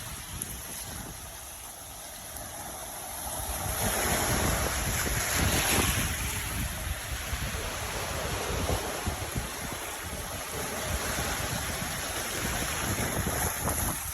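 Ocean surf washing in, swelling to its loudest about four seconds in, with gusting wind buffeting the microphone.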